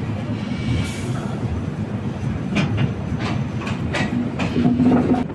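LHB passenger coach of a moving express train: a steady rumble of wheels on the rails, with a few sharp wheel clicks from about halfway in. A short low steady tone sounds near the end.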